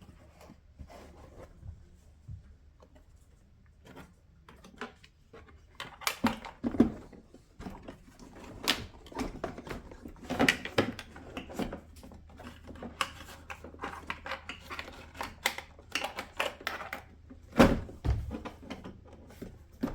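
Plastic center console trim of a Lexus RX330 being handled and pressed back onto its retaining clips: irregular plastic clicks and knocks, sparse for the first few seconds, then frequent, with a few sharper knocks.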